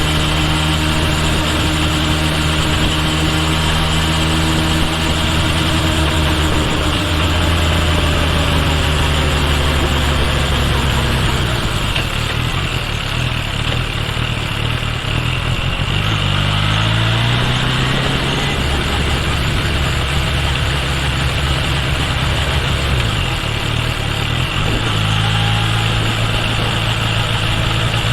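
Kawasaki Ninja H2 SX's supercharged inline-four running under way: a steady note that eases slightly for the first ten seconds, then climbs in rising steps in the middle as the bike accelerates, and settles to a steady cruise near the end, over a constant rush of road and wind noise.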